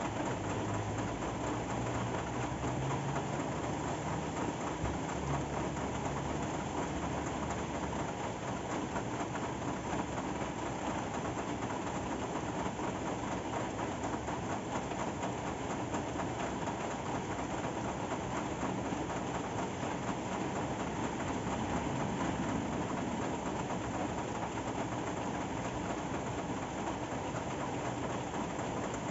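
Steady rain falling, an even hiss, with a faint low hum in the first several seconds.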